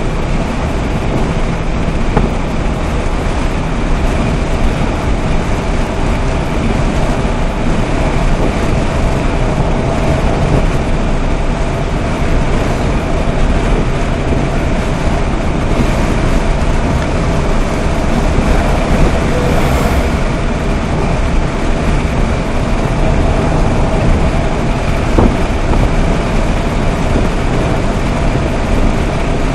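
Fiat Panda's 1.0 FIRE four-cylinder petrol engine running steadily at motorway speed, about 130 km/h, heard from inside the cabin with a constant hum over road and wind noise. The engine is a worn, high-mileage unit at about 238,000 km.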